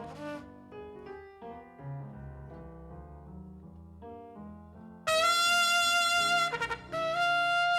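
Jazz recording played through Elfton Vegas II loudspeakers: soft piano notes over low bass, then a trumpet comes in much louder about five seconds in with long held notes, broken once briefly.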